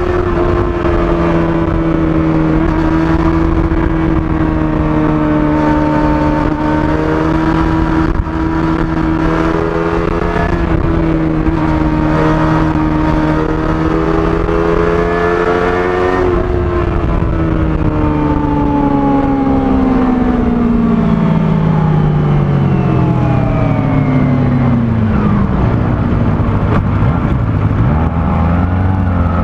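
Kawasaki ZX-25R's 250 cc inline-four on its stock exhaust, running at high revs with a steady high note for about sixteen seconds, then falling steadily in pitch as the revs drop, ending at a low note.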